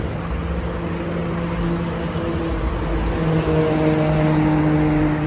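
A car driving: steady engine and road rumble, with the engine note stepping up in pitch and growing a little louder partway through as the car speeds up.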